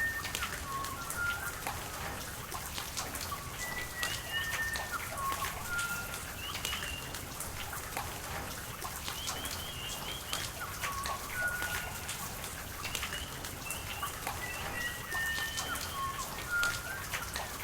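Rain falling and dripping over running water, with a bird singing short whistled phrases that come back every few seconds.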